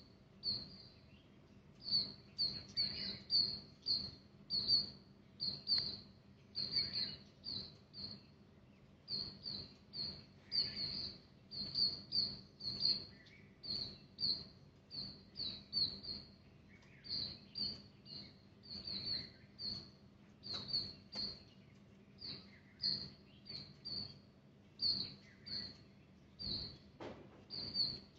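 Small birds chirping over and over in short high chirps, a few a second, with brief pauses between runs.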